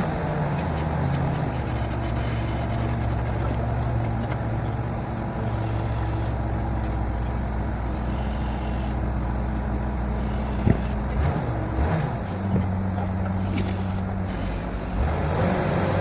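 Engine of a borewell drilling rig running steadily, its low hum shifting pitch a couple of times, with a few sharp metallic knocks a little past halfway.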